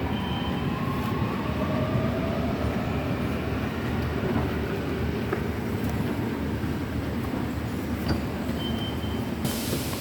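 Subway train running: a steady low rumble with a faint motor whine that rises and falls, and a short burst of hiss near the end.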